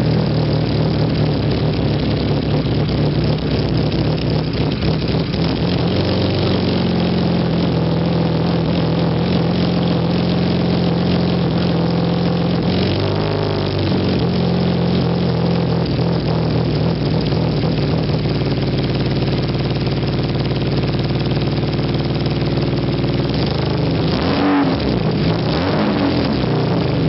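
BMW 335i inline-six engine, freshly converted to a single turbo, idling steadily just after its first start-up. The revs rise and fall briefly about halfway through, and twice more a few seconds before the end.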